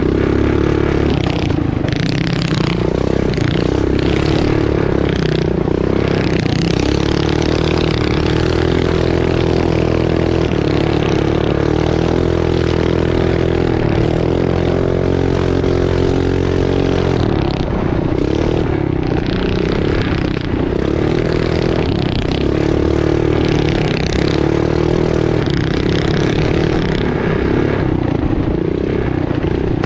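A mini bike's small single-cylinder engine running hard at high revs. The engine note holds mostly steady, dips briefly a few times and wavers in pitch through the second half. Clattering and noise from the rough track run alongside it.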